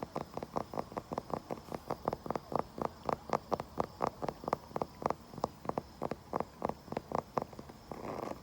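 Fingers or nails tapping quickly on wood, about five or six taps a second, giving way to scratching on the wood near the end.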